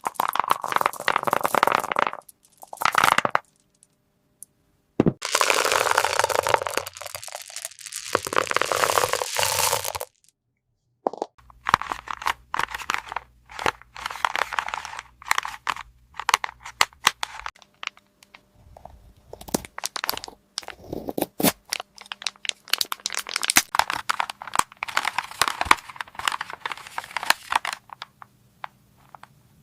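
Small plastic toy pieces and their packaging being handled: several bursts of crinkling, crackling wrap in the first ten seconds, then many quick clicks and taps of hard plastic parts.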